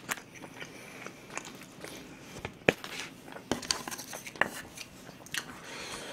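A person chewing food close to the microphone, with scattered sharp clicks from the mouth and from chopsticks in plastic takeout containers.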